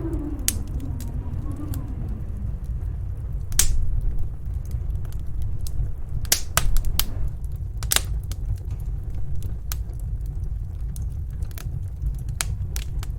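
Wood fire crackling with irregular sharp pops, over the steady low rumble of snowstorm wind. A howling gust fades out in the first two seconds.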